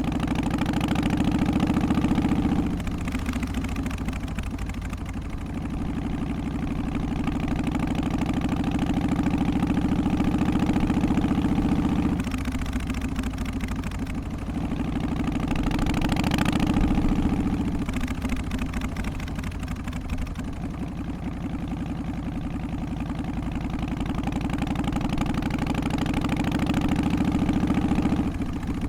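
Harley-Davidson Softail's Twin Cam 88 V-twin engine running, its sound building up and then dropping off abruptly four times, as with throttle being opened and closed.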